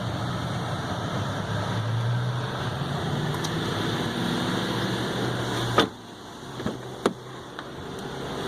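A pickup truck's running engine and climate fan hum steadily. About six seconds in, a car door shuts with one sharp thud and the hum drops off, followed by two light clicks like a door latch or handle.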